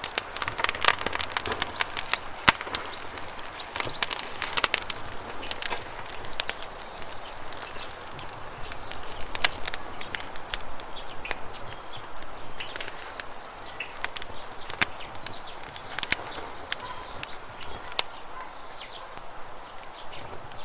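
Campfire crackling and popping in sharp, irregular snaps over a steady rush of flowing river water, with faint high bird chirps in the second half.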